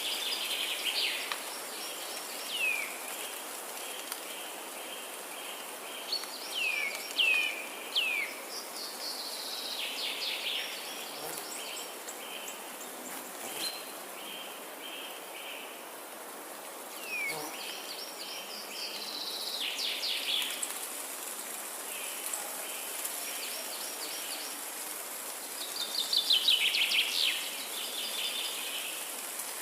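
Forest ambience: songbirds calling in bursts every few seconds, with quick downward-sweeping notes and rapid trilled phrases, the loudest cluster near the end. Beneath them runs a steady background hiss with a high, even buzz.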